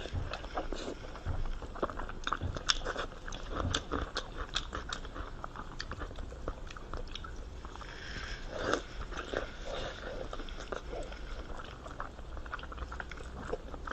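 Close-miked mouth sounds of someone biting and chewing pork skin rolls: a steady run of wet smacks and small crunchy clicks, with a couple of louder bites, one about three seconds in and one near nine seconds.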